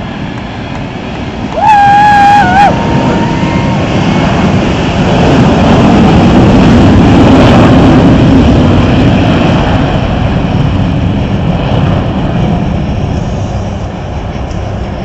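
Four Blue Angels F/A-18 Hornets taking off in formation in full afterburner: a loud jet roar that builds to a peak mid-pass, then slowly fades as they climb away. About two seconds in, a brief, loud, wavering high tone cuts through the roar.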